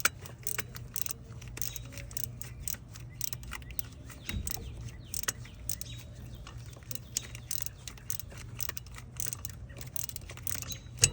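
Hand socket ratchet clicking in quick irregular runs as bolts are turned, with the odd knock of the tool against metal.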